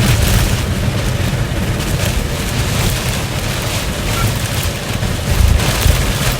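Strong wind rumbling and buffeting the microphone, a steady low rumble with gusty hiss above it, from the winds around a large nearby tornado.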